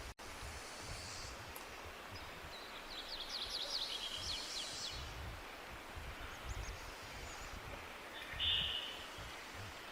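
Outdoor forest ambience: a steady hiss with a low rumble, and a songbird singing a fast trill of repeated notes about three to five seconds in. A short, louder bird call comes near the end. The sound cuts out for a split second right at the start.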